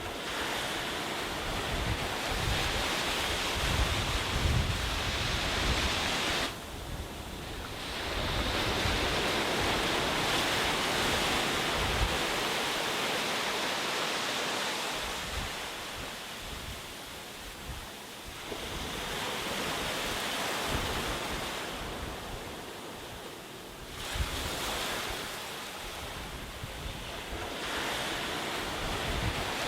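Sea waves breaking and washing up a beach, the surf swelling and fading every several seconds, with wind rumbling on the microphone.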